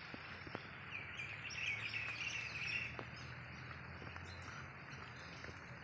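Birds chirping faintly for a couple of seconds over a steady background hiss, with a few small clicks.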